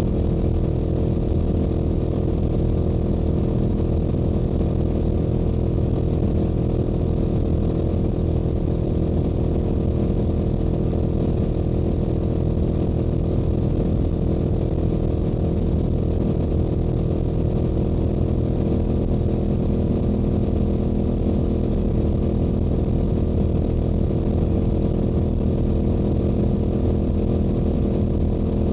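Yamaha YZF-R7's stock-exhaust 689 cc parallel-twin engine running steadily at a constant cruising speed on the highway, holding one even pitch throughout.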